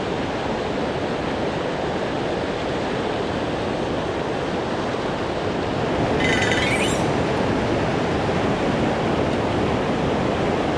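Steady rush of water pouring over a large weir on a mountain stream. About six seconds in, a brief high-pitched buzz cuts across it.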